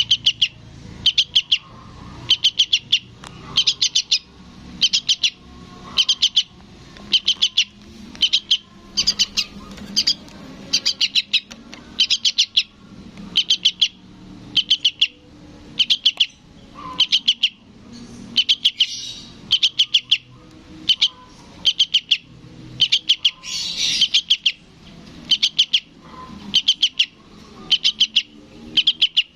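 Fledgling trucukan (yellow-vented bulbul) begging call, a young bird calling for its parent: a short cluster of quick high chips repeated about once a second.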